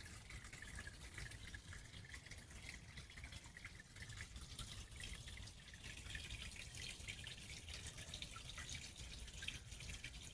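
Water from a small garden-pond waterfall splashing and trickling steadily, a faint patter of drips.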